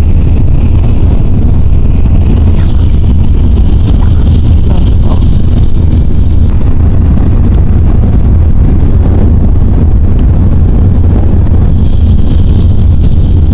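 Shinkansen bullet train running at speed: a loud, steady low rumble with no change.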